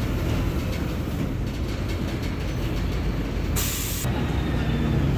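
Diesel engine of a Mercedes-Benz OF-1721 Bluetec 5 bus running with a steady low rumble, with a short, sharp hiss about three and a half seconds in.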